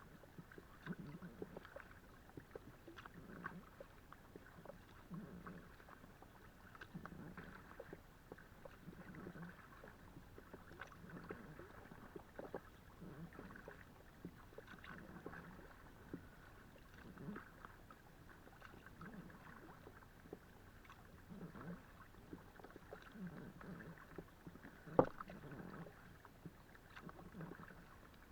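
Kayak paddle strokes in calm water, a soft swish and splash roughly every two seconds with light drips in between. One sharp knock near the end, likely the paddle touching the inflatable Itiwit x500 kayak.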